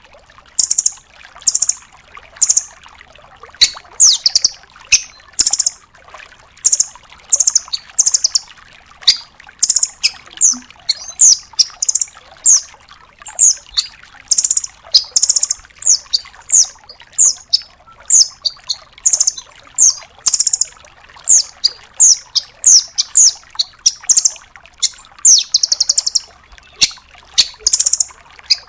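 Velvet-fronted nuthatch calling in a fast, unbroken run of short, high, sharp notes, several a second, with some quick rattling trills mixed in.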